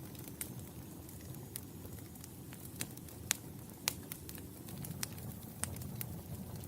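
Wood fire burning in a fireplace: irregular sharp crackles and pops over a low steady rumble of flames, with a couple of louder pops about halfway through.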